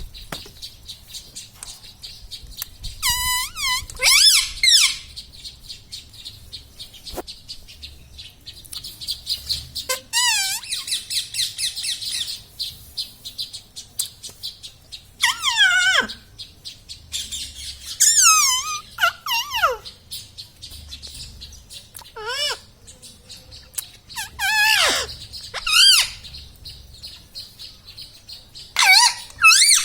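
Pet ringneck parrot calling and chattering: a string of short, high calls that sweep down in pitch, separated by pauses, with a fast rattling trill about ten seconds in.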